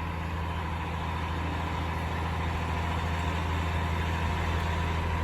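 Cat 352 excavator's diesel engine idling steadily, a constant low hum.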